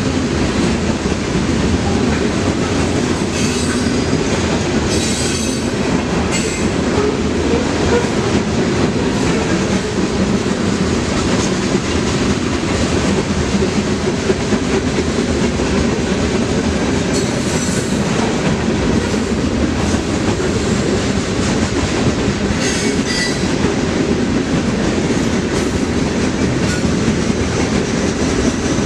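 Freight train cars rolling past, steel wheels running on the rail in a steady loud rumble, with a few brief high-pitched wheel squeals.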